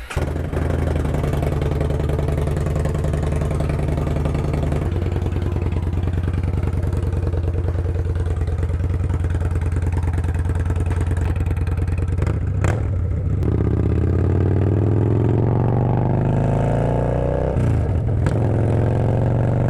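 Yamaha Bolt's air-cooled V-twin running with no muffler, open exhaust. It holds a steady idle, gives a single click about two-thirds of the way in, then climbs steadily in pitch as the bike pulls away, dips briefly near the end for a gear change and climbs again.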